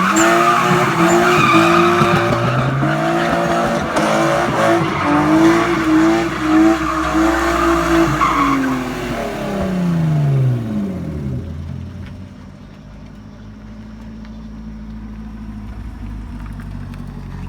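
A drifting BMW E36 with its engine held high in the revs and tyres squealing. About nine seconds in, the revs fall away in a long downward glide and the tyre noise stops, leaving a quieter low engine rumble.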